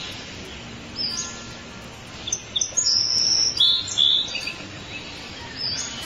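A songbird chirping in short, high notes, with a burst of quick calls about two to four seconds in, over soft background music.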